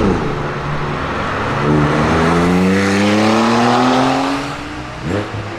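BMW M5 F10's twin-turbo V8, breathing through catless downpipes and an M Performance exhaust, revving hard: the engine note climbs steadily for about three seconds, then drops away, with a short blip near the end.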